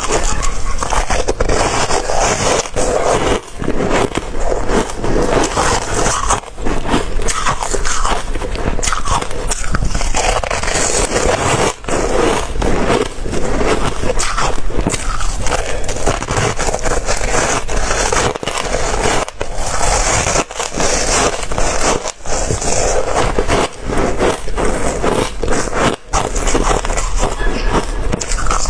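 Ice being bitten and chewed close to the microphone: a loud, unbroken run of crunches and cracks.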